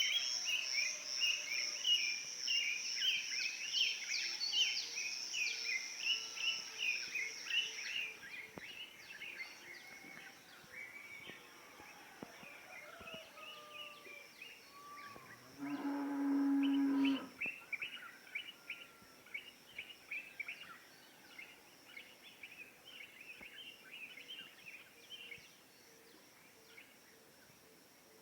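A morning chorus of many small birds chirping and twittering, busiest in the first eight seconds, over a steady high-pitched whine. Midway, a cow moos once for about a second and a half, louder than everything else.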